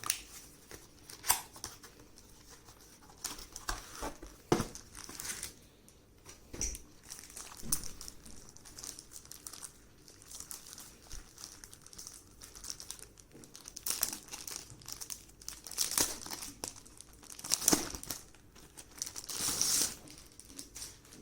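Packaging crinkling and rustling as it is handled, in irregular bursts with a few light taps, the longest rustle near the end.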